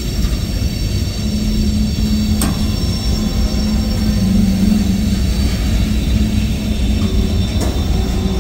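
Freight cars of a CSX manifest train rolling past: a steady rumble of steel wheels on rail with a low hum, and two sharp clicks about five seconds apart.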